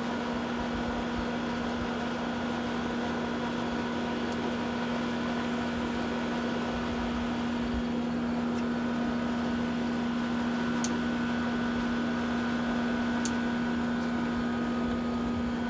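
Air conditioner unit running: a steady hum over an even rushing noise.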